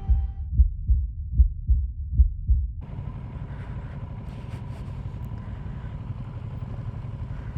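A deep, throbbing bass beat, about two or three thumps a second, ends abruptly about three seconds in, giving way to the steady noise of a motorcycle on the move: engine and wind rush with a faint steady whine.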